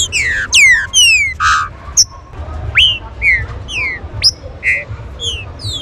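Green-winged saltator (trinca-ferro) singing: a quick run of loud, clear whistled notes, most sliding sharply down in pitch, about two a second, with short buzzy notes among them.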